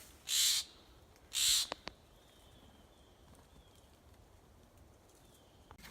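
Two short, harsh, hissing calls about a second apart from an animal at its nest, a sign that it is disturbed, followed by a couple of faint clicks.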